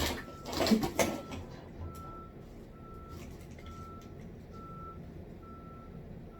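A vehicle's reversing alarm beeping about once a second on one steady pitch. Loud knocking and clatter of parts being handled in the first second or so.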